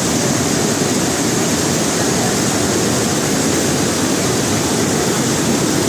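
Dhuandhar Falls on the Narmada River: a loud, steady rush of falling water.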